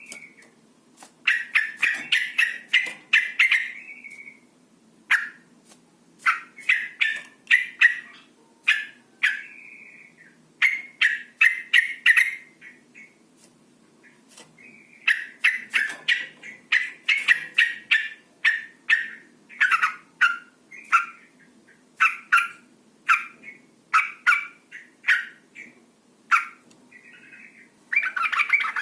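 Female sooty-headed bulbul (trucukan) giving its excited chattering 'cuk-cuk' call: rapid runs of sharp, clipped notes in short bursts with brief pauses between, a call used to stir males into singing.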